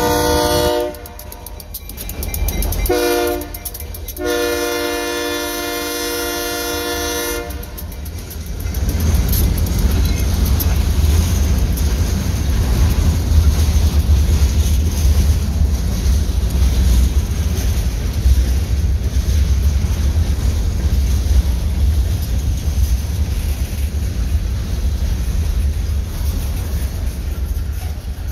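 Progressive Rail diesel locomotive sounding its multi-tone air horn: a long blast ending about a second in, a short one, then a long one of about three seconds, the long-short-long close of a grade-crossing signal. Then a long string of covered hopper cars rolls past, a steady low rumble of steel wheels on rail with clicking over the joints.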